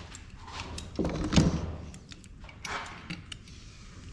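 Clicks and knocks of hand tools and metal printer parts being handled during disassembly, with a heavier thud about a second and a half in.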